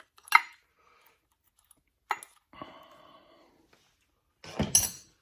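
Hand tools clinking and knocking on steel engine parts as a nut is taken off the pump drive gear of a Case 188D diesel engine: a few sharp metallic clicks, a short ringing in the middle and a louder clatter near the end.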